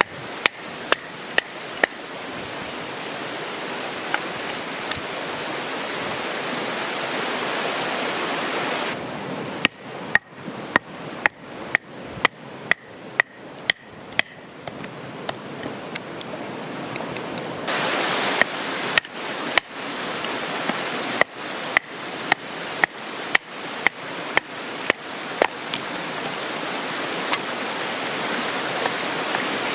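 A hammer driving tent stakes into the ground, in runs of steady strikes about two a second, over the constant rush of a river.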